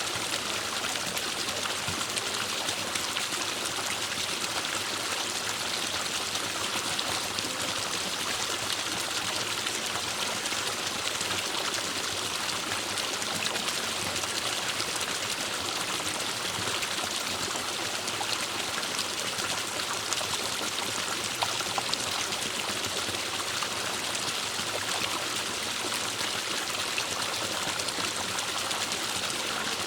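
Forest stream running steadily over rocks, an even rushing and trickling of water.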